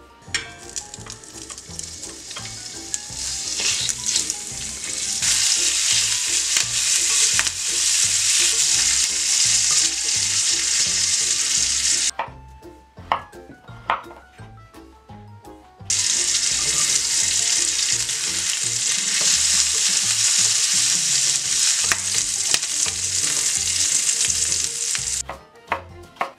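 Sausage and diced potatoes frying in olive oil in a cast-iron skillet, sizzling loudly. The sizzle breaks off for a few seconds in the middle, while a knife clicks a few times on a wooden cutting board dicing potato, then resumes. It stops again near the end, when a few knife chops on the board are heard.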